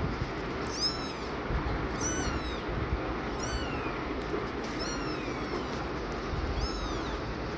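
Newborn kitten mewing: five short, high-pitched cries, each rising and falling, about one every second and a half.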